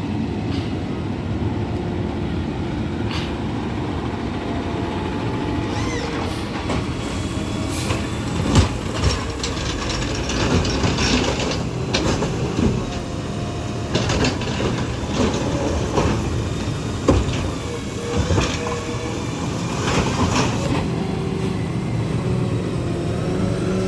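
A garbage truck's diesel engine runs steadily close by. From about six seconds in it is overlaid by a string of clanks and bangs and some high squealing.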